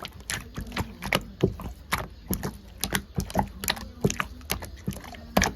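Slime being squished and pressed by hand, making irregular sharp clicks and pops, several a second.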